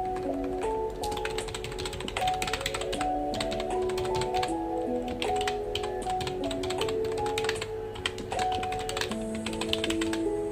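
Computer keyboard typing: quick, uneven runs of key clicks and taps, with short pauses between bursts. Soft background music of sustained melodic notes plays throughout.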